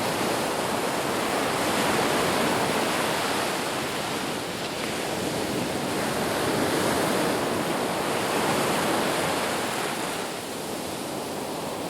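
Sea waves breaking and washing on a shore: a continuous rush of surf that swells and eases slowly, dropping back a little near the end.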